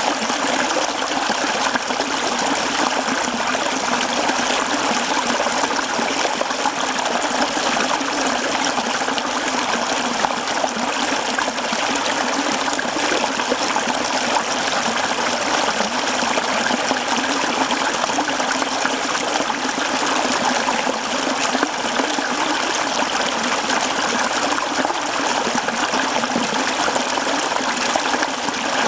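Mountain stream flowing over rocks: a steady, even rush of babbling and trickling water.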